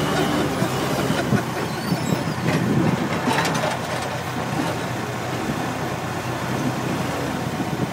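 Case backhoe's diesel engine running under load, with a few clanks and rattles from the machine.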